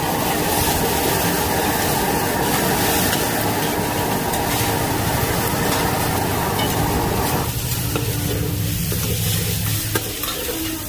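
Pad thai frying in a wok over a wood fire, sizzling loudly as it is stirred. The sizzle drops away about three-quarters of the way through, leaving a low steady hum and a single knock near the end.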